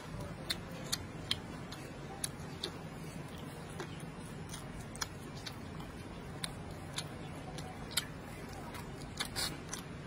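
Close-up eating sounds: chewing on braised pork, with sharp, irregular mouth clicks and smacks, over a steady low hum.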